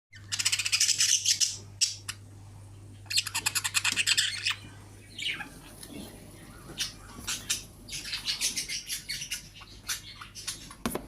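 Budgies calling: two runs of rapid, high, raspy squawking, each about a second long, followed by scattered shorter chirps.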